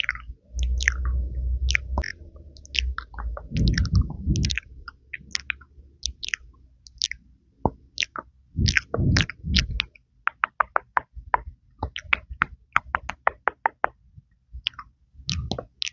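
Close-miked ASMR mouth sounds into a mini microphone: wet lip pops and tongue clicks, with muffled low puffs now and then. About ten seconds in comes a quick run of sharp clicks, roughly four a second.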